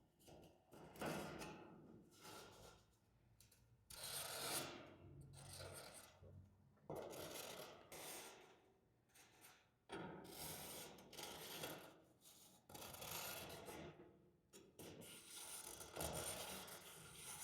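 Faint, intermittent rubbing and scraping strokes, each half a second to two seconds long, as the outline of a truck floor pan is traced onto a sheet of sheet metal.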